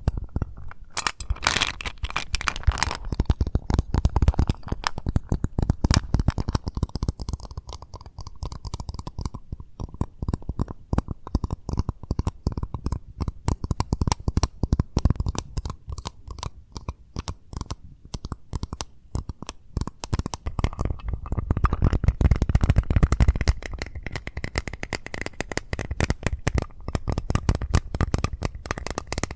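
Fast, dense fingertip tapping and scratching on an Eclipse mint container, close-miked, in quick irregular strokes, heavier near the start and again about three quarters of the way through.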